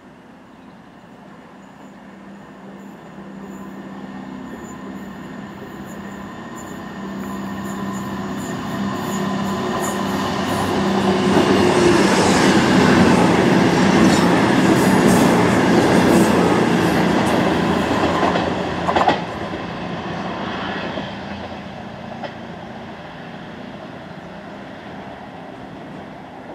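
CrossCountry Voyager diesel multiple unit approaching and passing close by, its underfloor diesel engines and wheels on the rails building to a loud peak. The sound drops off abruptly about two-thirds of the way through, then a more distant train approaching continues at a lower level.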